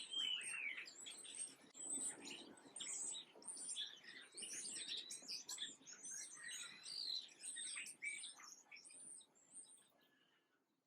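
Several small birds chirping and calling over one another, with many quick, high notes and some falling slurs. The chorus thins and fades out near the end.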